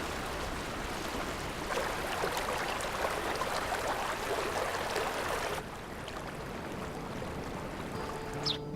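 Running water of a snowmelt-fed stream, a steady rushing that drops suddenly to a quieter flow a little past halfway. Soft music notes and a short chirp come in near the end.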